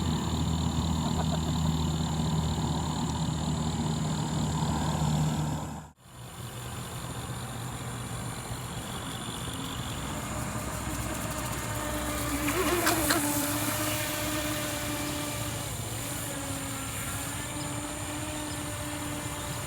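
Brushless electric drive of a small RC jet boat running with a steady whine. It cuts off abruptly about six seconds in and comes back quieter, and a second steady tone enters about halfway through.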